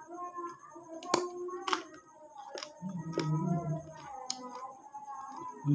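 Mouth and hand eating sounds from a mukbang of raw vegetables: sharp crunches and clicks from biting and chewing crisp lalapan, the loudest about a second in and again shortly after, over background music.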